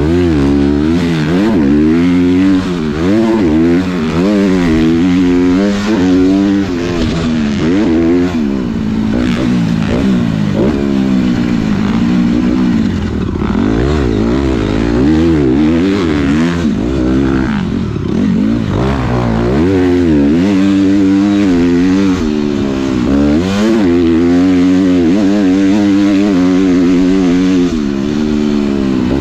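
Motocross dirt bike engine being ridden hard, its pitch rising and falling every second or two as the throttle is opened and shut.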